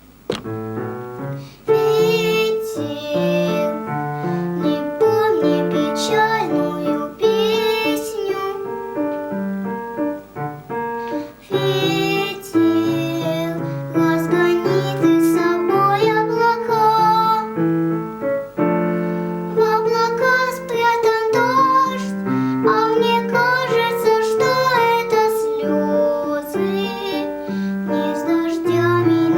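A young girl singing a slow song over piano accompaniment, her voice wavering on the held notes.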